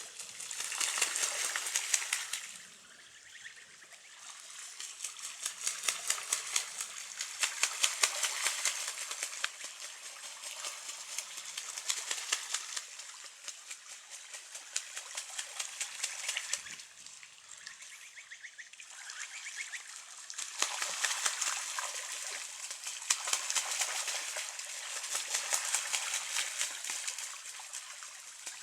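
Water splashing and sloshing in irregular surges a few seconds long, each full of fine crackle, with quieter gaps between.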